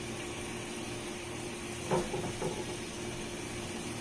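Chicken chunks frying in oil in a pan: a steady faint sizzle over a constant low hum, with a brief knock about two seconds in and a smaller one just after.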